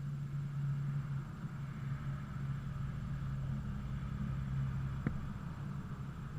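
2002 Subaru Impreza WRX's turbocharged 2.0-litre flat-four running steadily at idle, an engine with rod knock. A single sharp click about five seconds in.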